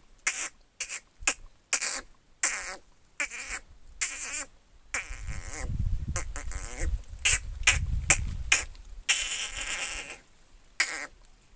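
A person imitating animal calls with the mouth and voice: a run of short, sharp bursts, then a longer stretch with a low rumble underneath about halfway through.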